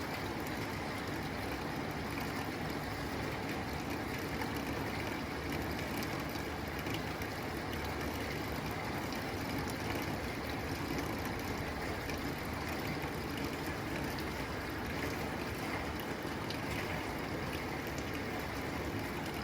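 Steady rain falling on a tin roof: an even, dense patter with a few sharper drop ticks.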